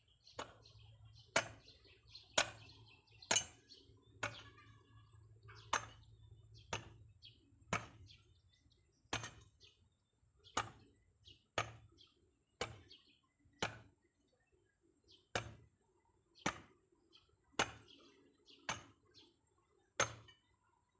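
A hand tool striking over and over in a steady rhythm, about one sharp chop a second, with birds chirping faintly in the background.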